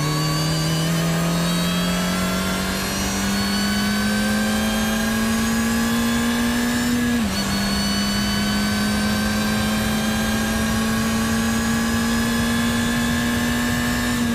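Mini Cooper GP1's supercharged four-cylinder engine, de-catted, pulling hard under acceleration: the engine note climbs slowly with a high supercharger whine rising alongside it. The pitch dips briefly for an upshift about seven seconds in, climbs again, then dips once more near the end.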